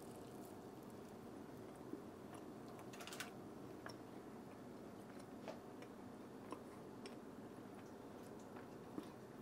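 Faint chewing of a mouthful of smoked pork spare rib, with a few soft mouth clicks scattered over low room tone.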